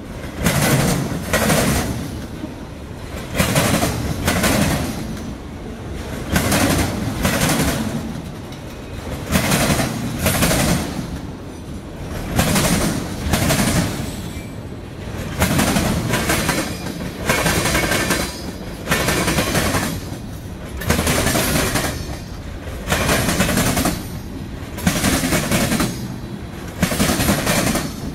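Freight train passing close by, autorack cars and then gondolas. Its steel wheels clatter over the track in clusters of sharp clacks, about one cluster every second and a half, over a constant rolling rumble.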